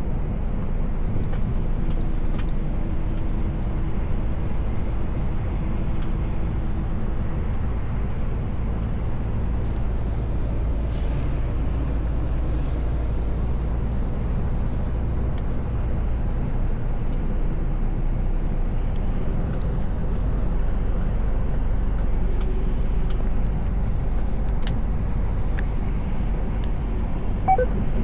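Mercedes Actros L truck on the move, heard from the cab: a steady low engine drone with road noise, and a few faint clicks and rattles.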